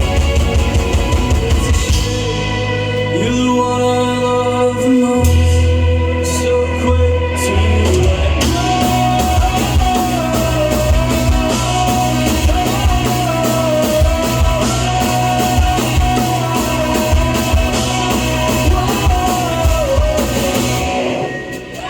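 Live rock band playing a song, with electric guitar and drum kit, and a held, wavering melody line through the middle; the sound drops briefly near the end.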